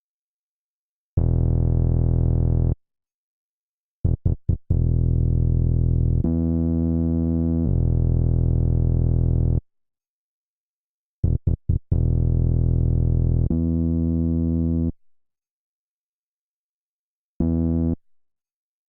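Synth electric-piano chords from a sampled melody, played in short held phrases that cut off abruptly, with silence between them. Twice, a quick stutter of three short chord hits opens a longer phrase in which the chord changes once or twice. No drums play under it.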